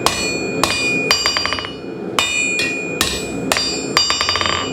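Blacksmith's hammer striking hot steel bar on an anvil, each blow ringing. Heavier blows come about every half second, broken twice by quick runs of lighter taps.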